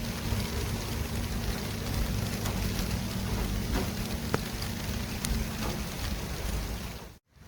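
City street traffic ambience: a steady hiss with a low rumble of passing vehicles and a few faint clicks. It fades out to a brief moment of silence about seven seconds in, then comes back.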